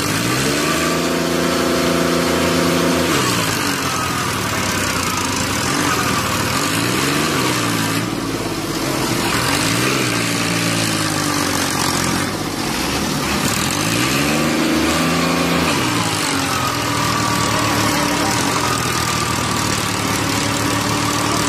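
Tractor engine revving up and down again and again, then holding a steady speed near the end. Twice midway there is a short rushing noise.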